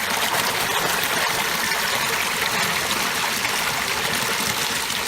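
Creek water rushing steadily through a low-water crossing, released as a clog of sticks and debris is pulled loose.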